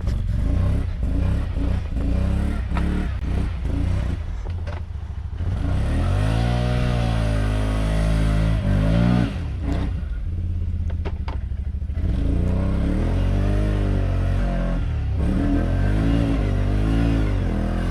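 A vehicle engine running hard and revving up and down again and again as it is driven, with some clatter in the first few seconds.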